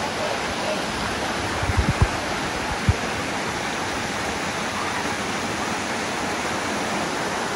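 Steady rush of water from the Dunn's River Falls cascade, with a few short low bumps near two seconds in and another about a second later.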